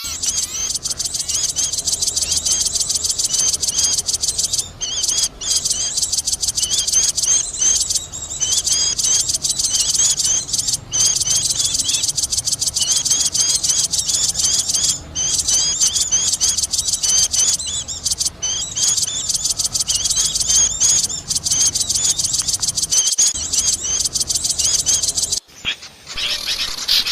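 Bird-lure recording of many small birds calling at once: a noisy, busy chorus of rapid, high-pitched chirps and twitters, played to draw small birds in. It drops out briefly near the end.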